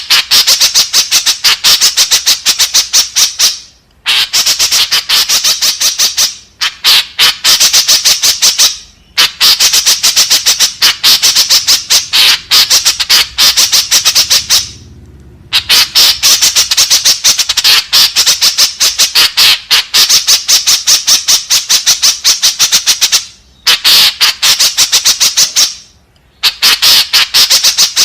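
White-breasted woodswallow (kekep babi) calling in rapid runs of short repeated calls, about five a second. The runs are broken by brief pauses every few seconds.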